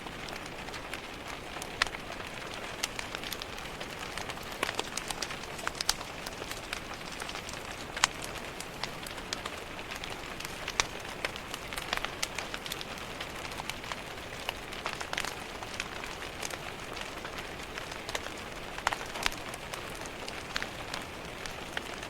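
Steady rain on a window with a wood fire crackling, its sharp pops scattered irregularly throughout.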